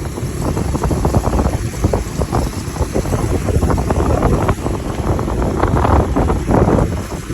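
Wind buffeting the microphone: a rough, uneven low rumble that swells and dips throughout.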